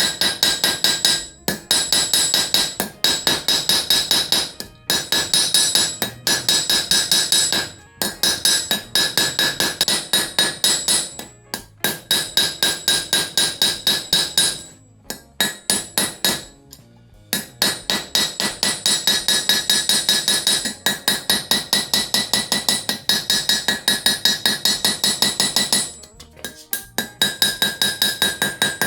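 Blacksmith's hammer striking hot steel on an anvil, about four blows a second in runs of several seconds with short pauses, each blow leaving a high metallic ring: drawing out a bar of iron by hand forging.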